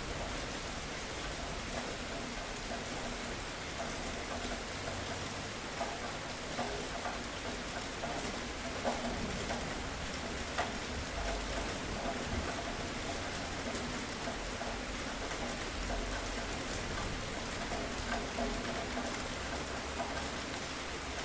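Steady rain falling on a surface, an even hiss with scattered louder drops ticking through it.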